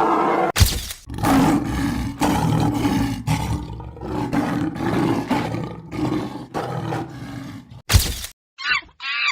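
A deep roar in a series of repeated grunting pulses, about two a second, broken by several abrupt cuts.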